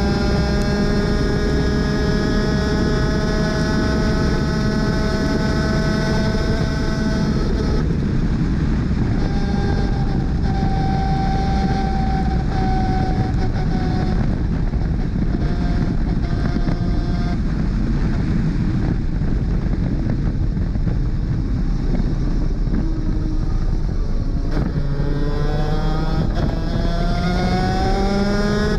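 A 250cc two-stroke superkart engine at racing speed. It is held high and nearly steady for several seconds, then comes off the throttle, with its pitch dropping in steps and running low for a while, then climbing again as it accelerates hard near the end.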